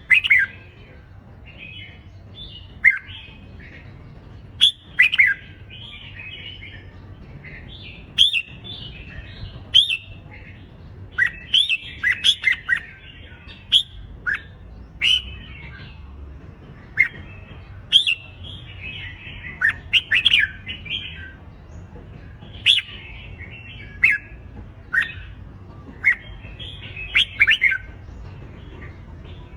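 Red-whiskered bulbuls in competitive fight song: a quick string of short, bright whistled phrases and sharp chirps, following one after another with brief gaps.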